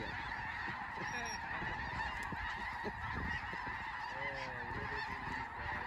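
A dense, continuous chorus of a large flock of snow geese honking overhead, many overlapping calls blending into one steady din.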